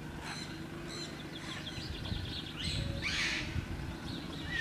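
Small birds chirping in short high notes over a steady low outdoor rumble, with a brief rushing hiss about two and a half seconds in.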